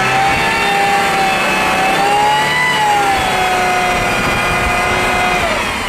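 GAZ Volga 31105 engine running hard at high, slowly wavering revs as the rear-wheel-drive car ploughs through knee-deep snow, pushing snow ahead of its front wheels; the engine note eases off near the end.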